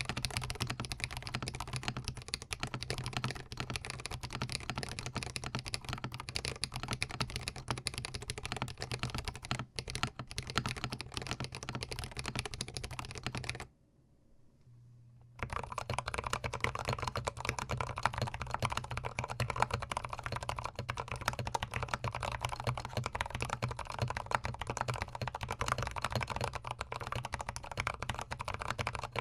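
Continuous fast typing on a GMMK Pro gasket-mount mechanical keyboard, recorded very close to the keys, first with Holy Panda tactile switches. After a pause of a second and a half about 14 seconds in, the typing resumes on Zealios tactile switches.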